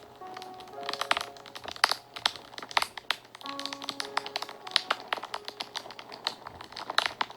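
Wood fire crackling and popping in quick, irregular snaps, over soft background music of slow held notes.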